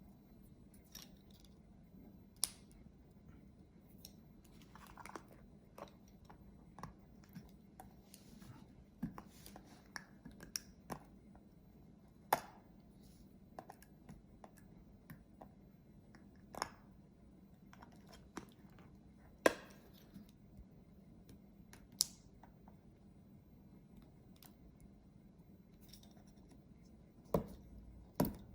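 Scattered sharp clicks and light taps of a small screwdriver and tiny screws being handled while a 2.5-inch hard drive is taken apart, about a dozen at irregular intervals.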